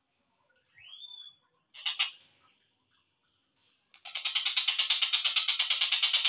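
Slowed-down recording of a tengkek buto kingfisher calling: a single rising slurred note, a sharp loud note, then about two seconds before the end a fast, even string of harsh repeated calls, roughly ten a second.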